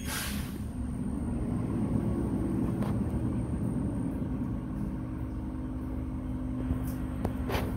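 Garbage truck engine running close by: a steady low rumble with a held low hum that swells over the first couple of seconds and eases off near the end.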